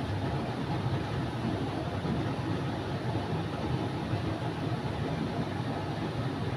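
Steady, even low rumbling noise from the stove as the covered pot of chicken liver and gizzards cooks.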